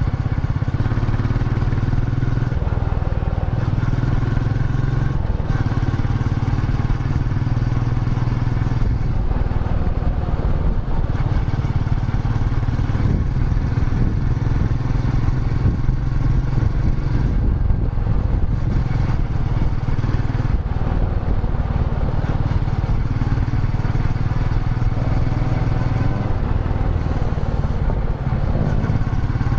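Royal Enfield Meteor 350's 349 cc single-cylinder engine running as the motorcycle is ridden, a steady low beat whose pitch shifts slightly now and then with the throttle.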